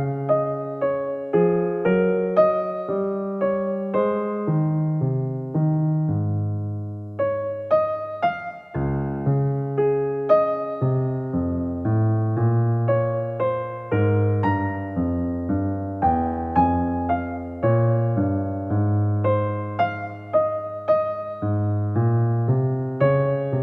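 Soft background music: a gentle keyboard melody of struck notes over low sustained bass notes.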